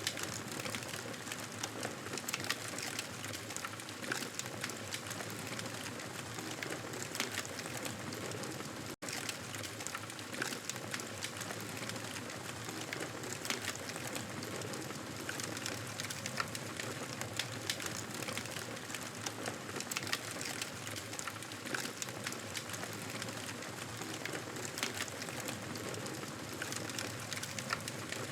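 Wood fire crackling: a steady hiss dotted with many small, irregular pops and snaps. It drops out for an instant about nine seconds in.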